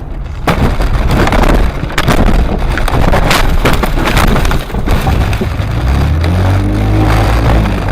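Loud car noise on a dashcam microphone: rumbling and rattling with repeated sharp knocks, starting suddenly about half a second in. About six seconds in, an engine revs up, rising in pitch.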